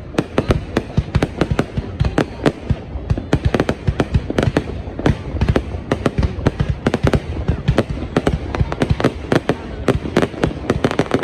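Fireworks going off in a rapid, unbroken string of sharp bangs and crackles, several a second.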